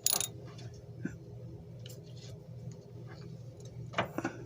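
Faint scattered clicks and handling noise from a socket wrench being worked on a tight bolt, with a short scrape at the start and another about four seconds in, over a faint steady hum.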